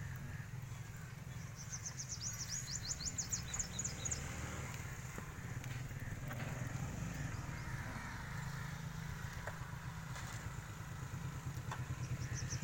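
A low, steady engine-like rumble, with a rapid run of high chirps from a bird about two seconds in and again near the end.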